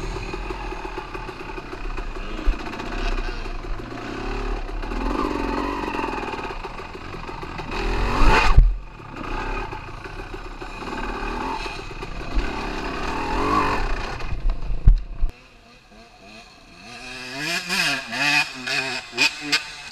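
Dirt bike engine running with rising and falling revs and a sharp rev about eight seconds in, over a low rumble. The engine sound cuts out about fifteen seconds in, and voice-like calls follow near the end.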